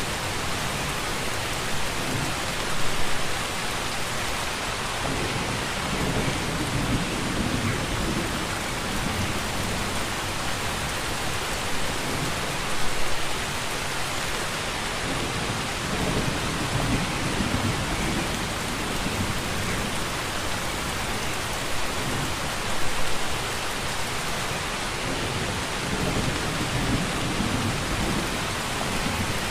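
Steady rainfall hissing evenly, with low rumbles of distant thunder swelling and fading now and then. A brief louder burst of rain comes about every ten seconds.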